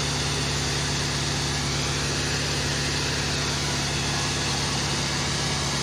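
Tractor engine running steadily at an even speed, with a constant low hum and no revving.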